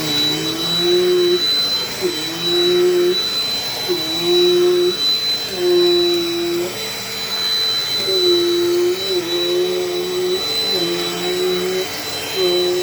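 Dirt Devil Dynamite Plus vacuum cleaner running with a steady high motor whine. A lower hum under it comes and goes about every second and a half.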